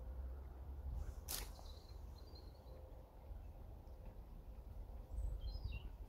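Faint songbird chirps: a few short high notes shortly after a second in and a quick run of notes near the end, over a low background rumble. A single sharp click sounds about a second in.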